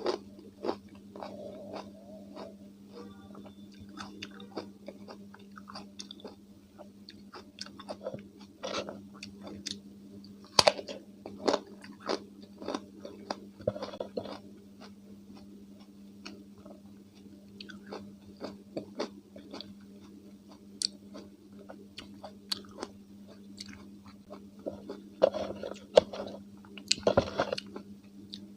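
Close-miked chewing of crunchy raw cucumber with mayonnaise: irregular wet crunches and clicks, with a few louder bites, one about 10 seconds in and a cluster near the end. A steady low hum runs underneath.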